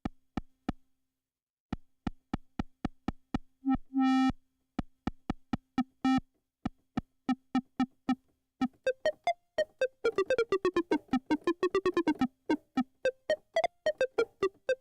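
Modular synth voice, a single oscillator through a filter whose cutoff is driven by the Animodule Anvilope envelope set short and percussive. It plays a train of short plucked blips on one pitch, three or four a second, with a couple of longer notes. Around the middle the blips come faster and the filter's bright resonance sweeps up and down.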